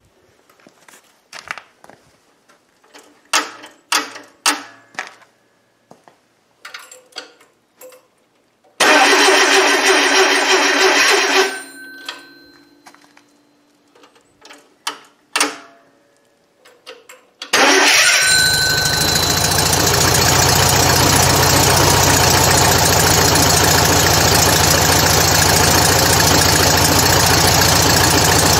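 Rebuilt Volkswagen Beetle 1300 air-cooled flat-four engine being started. After a run of scattered clicks and knocks, a first attempt about nine seconds in goes loud and then fades out after two or three seconds. After a few more clicks, a second attempt near the middle catches, and the engine runs steadily at idle.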